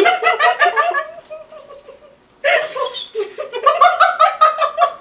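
Young women laughing: a run of rapid giggles that fades out, a brief lull about two seconds in, then another burst of laughter.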